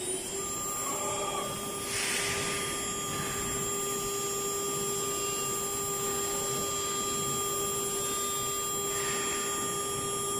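CNC router's ATC spindle running at steady speed with a high, even whine, with two short bursts of hissing noise, about two seconds in and near the end, while it works with tool T1.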